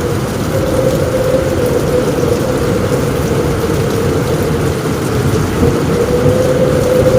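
Heavy rain falling steadily on a roof, a dense low-pitched wash with no let-up, with a faint steady hum running underneath.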